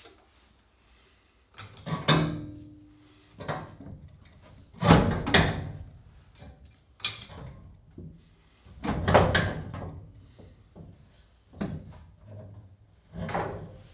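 Irregular knocks and clatter of things being handled or set down, the loudest about 2, 5, 9 and 13 seconds in; the one near 2 seconds rings briefly.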